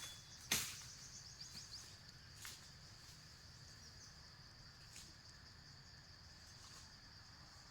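Faint, steady high-pitched insect drone in rural surroundings. A sharp knock comes about half a second in, and a couple of fainter ticks follow later.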